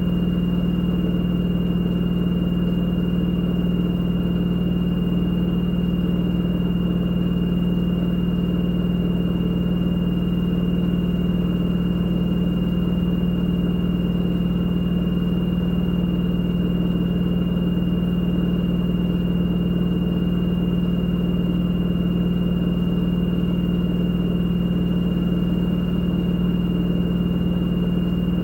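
LG direct drive washing machine drum spinning steadily on a spin-only cycle. A constant low hum is joined by a thin, steady high-pitched whine from the motor.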